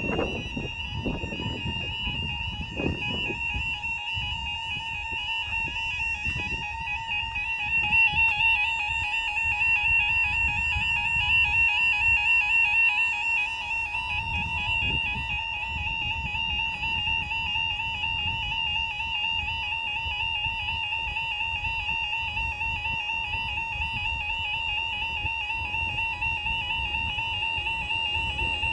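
Level crossing alarms sounding continuously: two high-pitched electronic warbling tones. One of the alarms is faulty and gives a very odd sound.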